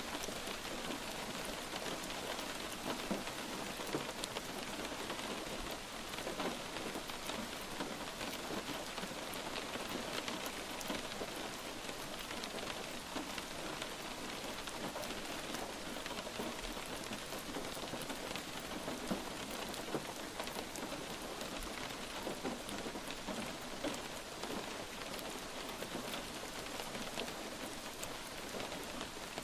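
Light rain falling steadily, a constant hiss of rain with many small ticks of individual drops.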